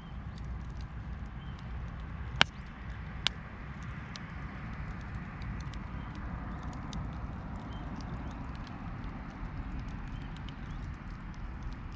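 Wood campfire crackling, with scattered small snaps over a steady low roar and two sharp, loud pops a little under a second apart about two and a half seconds in.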